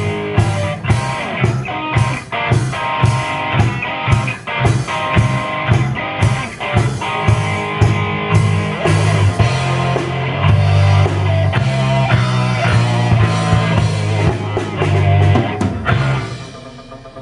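A band playing a rock-style song with guitar, bass and drum kit to a steady beat; the music comes to a stop about a second before the end.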